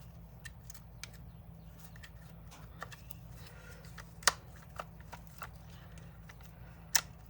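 Scattered light clicks and taps of drill parts being handled and fitted together, with one sharper click about four seconds in and another near the end, over a low steady hum.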